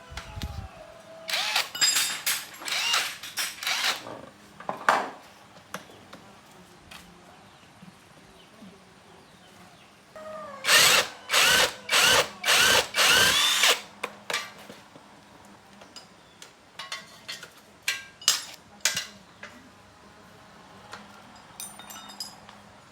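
A drill-like power tool run in short bursts, each under a second, in two clusters about nine seconds apart. Light clicks and taps follow in the second half.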